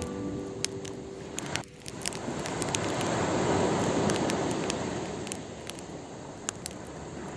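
A sea wave washing in on the shore, swelling and then drawing back, while a campfire crackles with sharp pops throughout.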